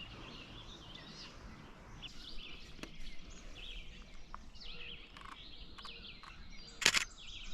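Several songbirds singing at once in a wetland morning chorus, short varied phrases overlapping. A single brief loud knock sounds near the end.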